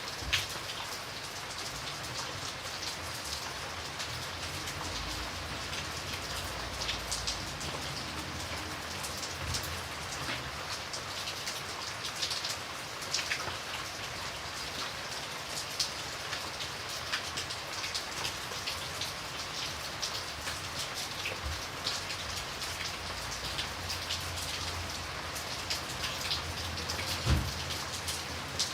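Steady rain falling on a hard surface, a constant hiss with many individual drops pattering clearly, and one louder low drip or knock near the end.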